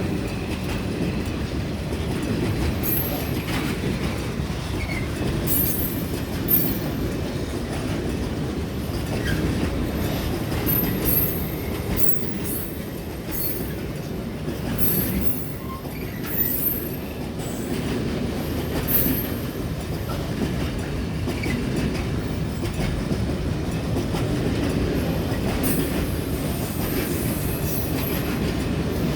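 Freight train wagons rolling past steadily, a continuous rumble of wheels on the track with clatter over the rail joints, and short high-pitched wheel squeals breaking in again and again.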